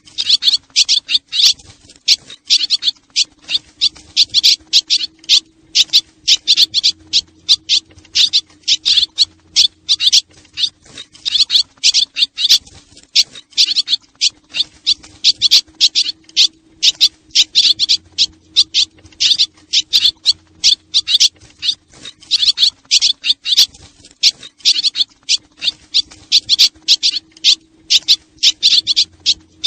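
Swallows twittering: a dense run of rapid, high chirps in quick clusters, with a faint steady low hum underneath. It is a recorded swallow call of the kind played to lure swallows.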